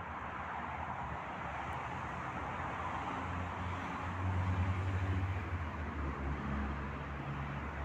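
Road traffic noise, with a vehicle engine's low hum growing louder about three seconds in, peaking near the middle, then easing off.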